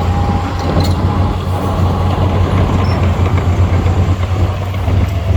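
Heavy diesel engine of earthmoving equipment running steadily under load, with a low, even drone and a thin high whine over it for the first second or so.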